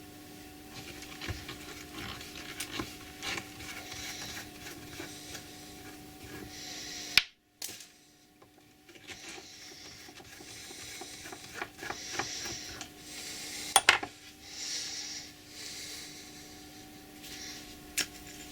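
Steel bolt cutter parts being handled and scrubbed clean: metal pieces clinking and knocking against each other, with stretches of scrubbing hiss and a steady low hum underneath. The sound drops out briefly a little before halfway.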